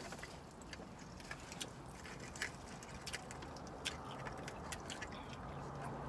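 Faint chewing and wet mouth clicks of a person eating fried food, as a scatter of short, irregular clicks.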